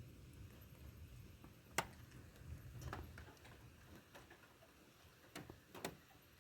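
Quiet lull in a thunderstorm: a faint low rumble of distant thunder dies away, with a handful of sharp ticks scattered through it, the loudest about two seconds in.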